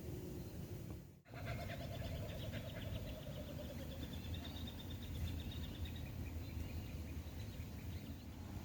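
Birds chirping and calling rapidly over steady outdoor background noise, with a brief dropout in the sound about a second in.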